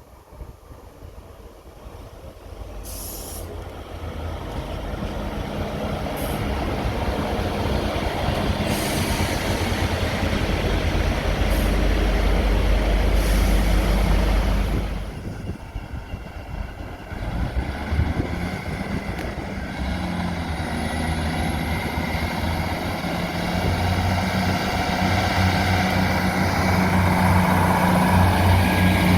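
A train passing, its noise building for over ten seconds, dropping away suddenly, then a steady engine drone that grows louder again near the end.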